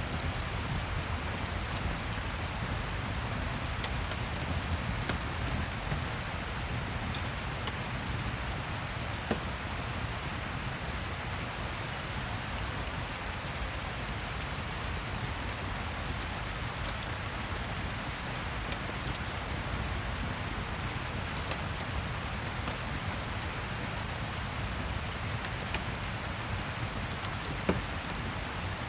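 Steady rain ambience with a low rumble, mixed with a fireplace, with a couple of sharp clicks, the loudest near the end.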